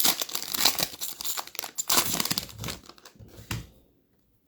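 Plastic wrapper of an NBA Hoops retail trading-card pack crinkling and tearing as it is handled and ripped open, stopping about three and a half seconds in.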